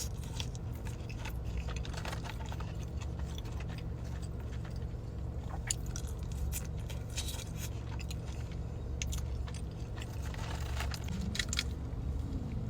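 A person chewing food with the mouth close to the microphone: scattered wet clicks and light crunches, over a steady low hum.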